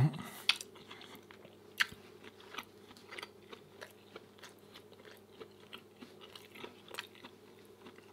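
A person chewing food close to the microphone, with soft, irregular mouth clicks and a couple of sharper clicks in the first two seconds.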